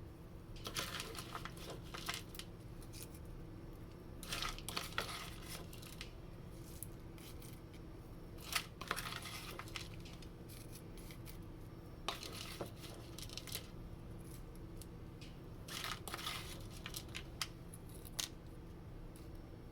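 Bacon bits shaken out of their container onto a baked potato, in five short rattling bursts about four seconds apart, over a faint steady hum.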